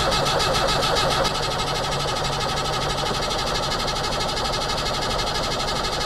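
Starter motor cranking the 1981 Land Rover Series III's 2.25-litre four-cylinder diesel in a steady, fast chug without it firing: slow cranking on a flat battery, and the engine won't start. It gets a little quieter about a second in.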